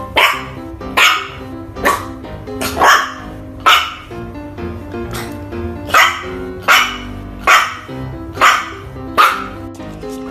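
Shiba Inu puppy barking, about one bark a second: five barks, a pause of about two seconds, then five more. Background music runs underneath.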